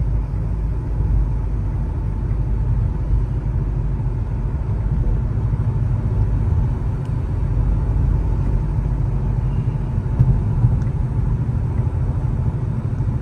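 Car driving, heard from inside the cabin: a steady low rumble of engine, exhaust and road noise. The car's exhaust has the remains of a run-over deer caught under it.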